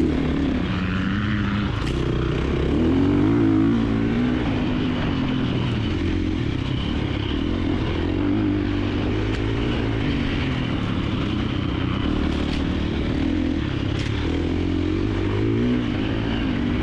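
A 2024 KTM 350XC-F's four-stroke single-cylinder engine revving up and down continuously through tight off-road terrain. A few sharp ticks come through along the way.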